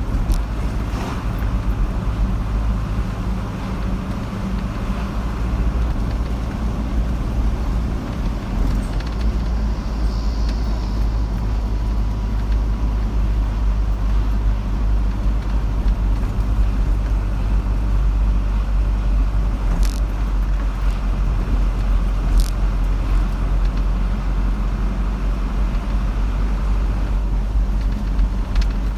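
Steady low rumble of a car driving along a road: engine and tyre noise, with a couple of faint clicks near the end.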